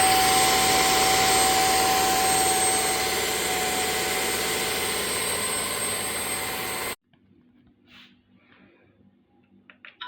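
Bissell CrossWave OmniForce wet-dry vacuum running, its suction motor giving a steady whine, then stopping abruptly about seven seconds in.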